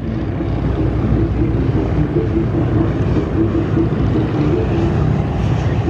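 Piston-engine propeller airplane flying a low pass, its engine running steadily with a slightly wavering drone.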